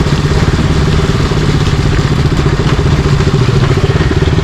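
Single-cylinder 200 cc motorcycle engine running steadily at low revs, heard from the rider's helmet.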